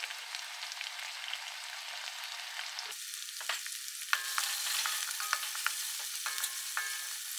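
Chopped onions, curry leaves and dals sizzling in hot oil in a metal kadai. In the second half a wooden spatula stirs them, adding small clicks and short squeaky scrapes against the pan.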